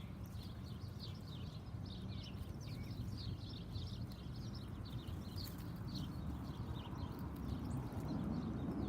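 Small backyard birds chirping: a quick stream of short, high chirps that thins out near the end, over a low steady rumble.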